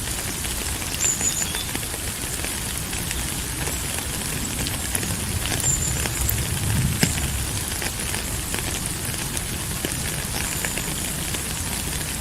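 Steady rain falling: a constant hiss with many drops tapping close by, and a low rumble swelling around the middle.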